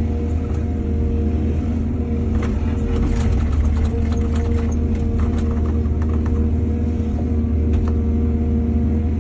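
Excavator's diesel engine running steadily, with a run of clanks and rattles from about two and a half to six seconds in and another knock near the end.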